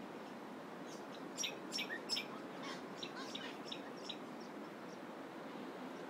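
Birds chirping in the trees: a quick run of short, sharp chirps, loudest about one and a half to two seconds in and thinning out after about four seconds, over a steady background hiss.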